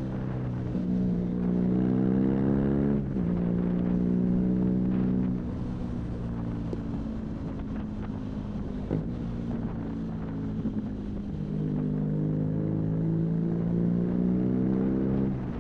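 BMW R nineT's 1170 cc boxer twin, fitted with an Arrow high-mounted exhaust, pulling under throttle. The revs climb and drop sharply at an upshift about three seconds in, ease off to a lower steady note in the middle, then climb again to another shift near the end. Wind rush from riding speed lies under it.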